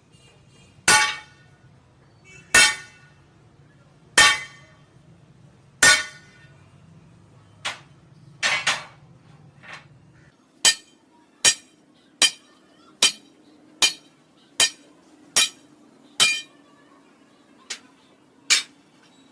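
Hammer striking metal, each blow ringing briefly. The first four heavy blows come about a second and a half apart, then a few lighter, uneven ones, then a steady run of blows slightly faster than one a second.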